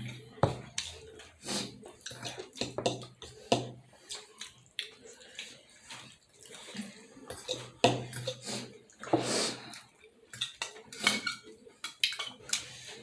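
Close-miked eating of juicy momo dumplings: wet chewing, smacking and slurping in irregular bursts, with now and then a clink of dishes or cutlery.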